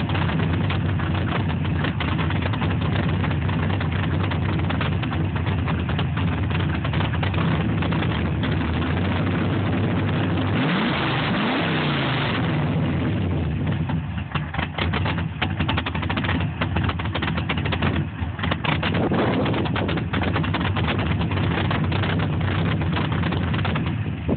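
Cammed GM LS-series V8 with an HPE Megadeath cam and LS6 243 heads idling on its untuned first startup. About ten seconds in, the throttle is blipped once: the engine revs up and falls back to idle.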